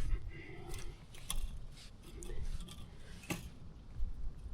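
Scattered metal clicks from a handheld wire tensioner being worked on high-tensile fence wire, with two sharper clicks, one about a second in and one about three seconds in.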